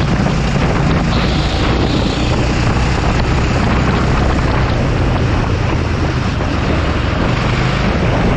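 Racing kart engine running steadily at speed, with a dense, even rush of wind noise over it.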